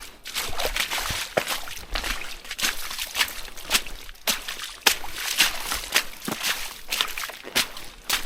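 A hiker's boots tramping along a waterlogged forest track, wet ground underfoot, about two steps a second.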